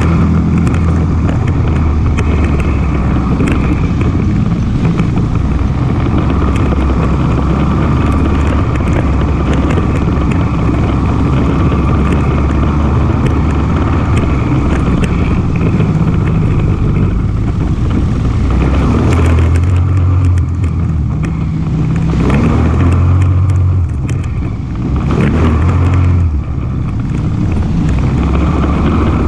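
ATV engine running as it rides along, with the engine note easing off and picking up again a few times in the second half. Short knocks and rattles come from the ride throughout.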